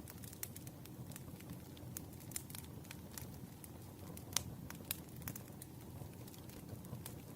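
Campfire crackling: a steady low rumble of burning wood with frequent sharp pops and snaps, one louder snap about four seconds in.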